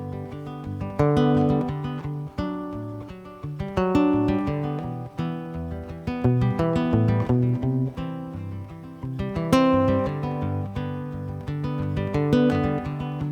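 Acoustic guitar playing a song's instrumental introduction: chords strummed and left ringing, with a new strum about every second.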